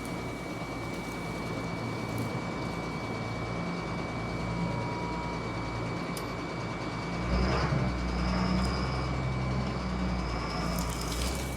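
Deuce-and-a-half military truck engine turned over on its 24-volt starter, a louder low rumble for about four seconds from roughly seven seconds in, over a steady engine hum. The engine turns freely rather than being seized.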